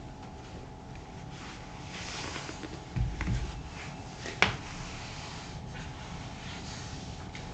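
Handling noise from cleaning a leather boot with saddle soap: soft rubbing, then a couple of low knocks, then one sharp click.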